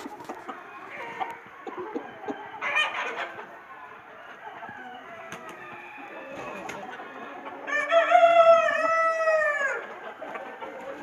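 A flock of natu kodi country chickens clucking, with a rooster crowing once, loud and about two seconds long, about three-quarters of the way through.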